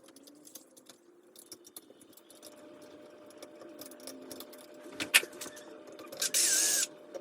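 Small clicks, taps and scrapes of hand work on a metal ceiling fan mounting bracket, with a sharp click about five seconds in and a louder rasping scrape near the end.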